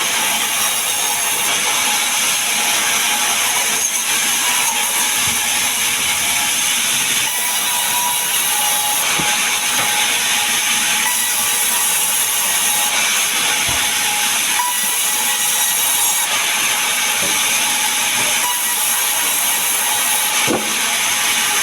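Power saw steadily cutting mahogany and pine timber, a continuous loud hissing whine of the blade running through the wood.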